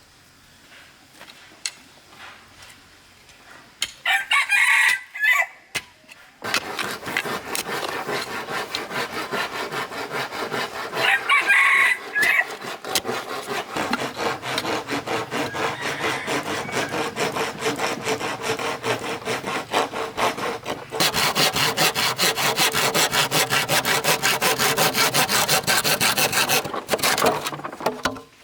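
A saw cutting bamboo in quick, even strokes, starting about six seconds in and getting louder for the last several seconds. A rooster crows twice, once just before the sawing starts and once during it.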